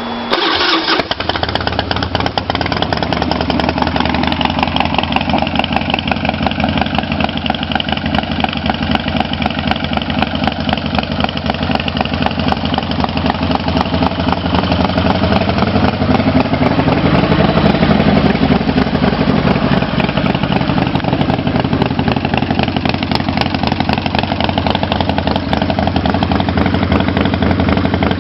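Harley-Davidson V-twin with drag pipes starting up about half a second in, then idling, with a slow rise and fall in revs partway through.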